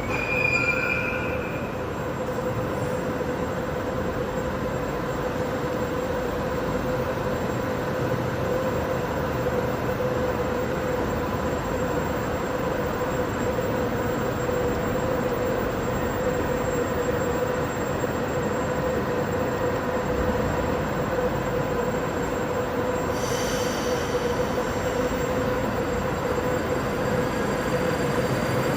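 Moscow Metro train running between stations, heard from inside the car: steady rolling noise from the wheels and running gear, with a steady whine held throughout.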